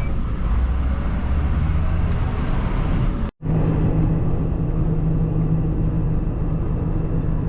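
Converted MAN truck's diesel engine and road rumble while driving. About three seconds in, a sudden cut leads to a steadier engine drone with a constant low hum.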